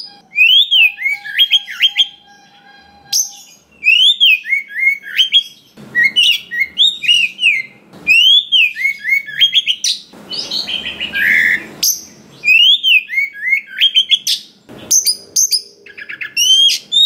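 Oriental magpie-robin (kacer) singing: varied phrases of quick whistled notes that swoop up and down, with short pauses between phrases. A short burst of noise comes about ten seconds in.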